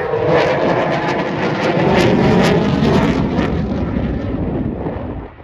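Eurofighter Typhoon FGR4's twin EJ200 jet engines on a loud, fast pass: the jet noise swells to a peak with crackling in the middle, then fades as the jet moves away.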